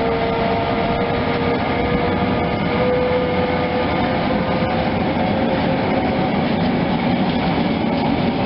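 Train running along the track: a steady, loud rolling noise with a faint, slowly wavering tone above it.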